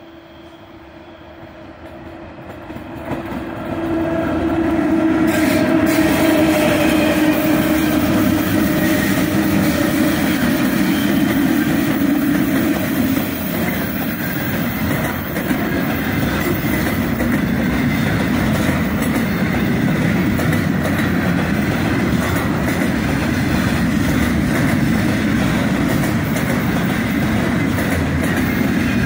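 A heavy freight train hauled by a multiple set of 2ES5K Ermak electric locomotives under load approaches and passes close by. The locomotives' steady hum swells and drops slightly in pitch as they go by about five seconds in. After that comes the steady rumble and clickety-clack of loaded container wagons rolling past.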